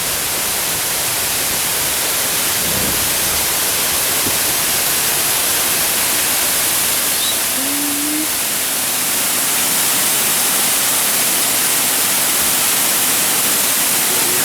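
Waterfall rushing close by: a loud, steady hiss of falling water.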